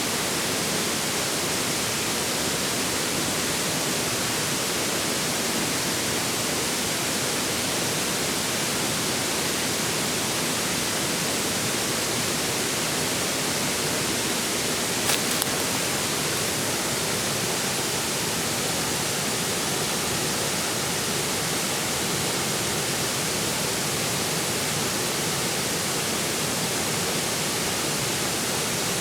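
A forest stream running steadily, an even hiss of flowing water, with one brief sharp click about halfway through.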